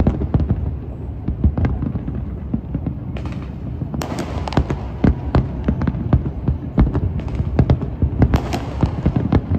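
Fireworks going off: a rapid, irregular run of sharp bangs and cracks, several a second, over a continuous low rumble.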